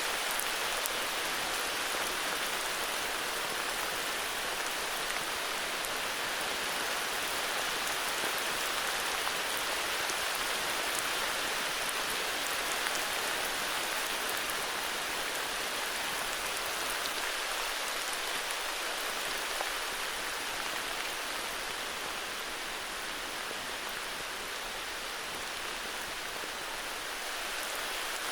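Steady heavy rain falling, a dense even hiss of drops with faint individual ticks, easing slightly near the end.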